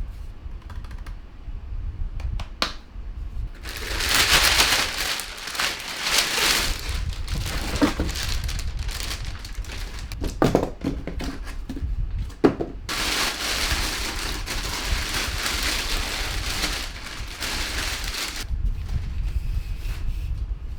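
Plastic packaging crinkling and rustling as it is handled and pulled off, in two long stretches, with a few sharp knocks in between.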